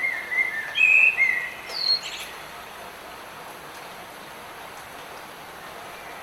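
Light rain falling as a steady hiss, with a songbird singing a short phrase of clear whistled notes in the first two seconds.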